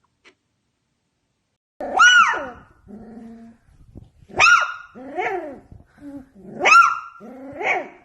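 A dog barking: three loud, short barks about two seconds apart, starting about two seconds in, with quieter whining calls between them.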